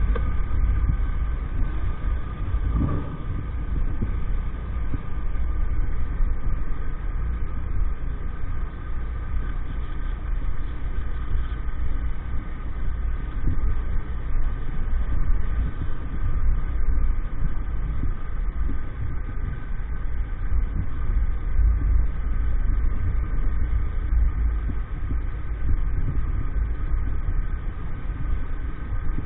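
50 cc motorbike engine running at a steady speed while riding, a constant engine drone with heavy wind rumble on the microphone.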